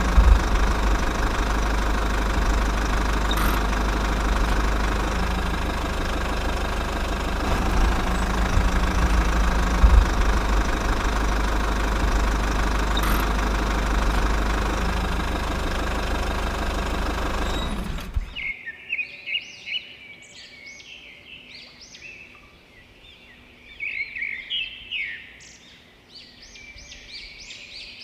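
A small motor runs steadily for about eighteen seconds, then cuts off suddenly. Afterwards birds chirp in the quiet.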